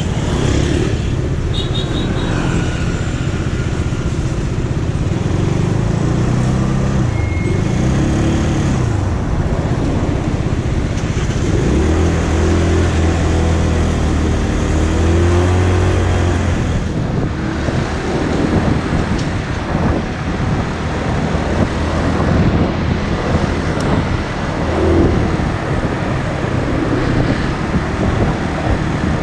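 Motorcycle engine running under way, its pitch rising and falling several times as the rider speeds up and eases off, over a steady rushing noise.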